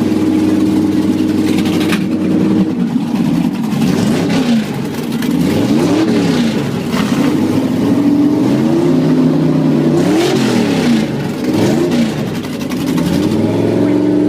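Drag car engine idling with a steady lumpy note, then revved up and back down several times, its pitch climbing and falling with each blip of the throttle, before settling back to idle near the end.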